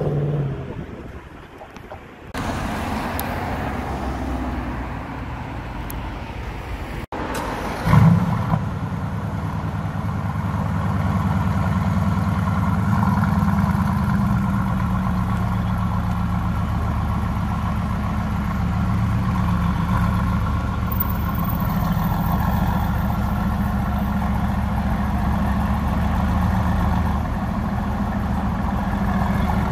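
Mercedes-AMG GT Roadster's twin-turbo V8 starts about eight seconds in with a short loud burst of revs, then idles steadily. In the first couple of seconds another car's engine fades away.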